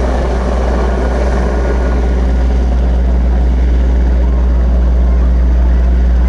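Firefighting helicopter's rotor and engine running with a steady low hum, growing a little louder about two seconds in.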